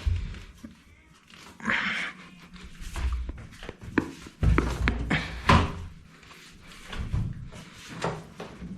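Heavy front-load washing machine being rocked and shifted onto plastic anti-vibration pads: a run of irregular thuds and knocks with short scrapes, the loudest knock about five and a half seconds in.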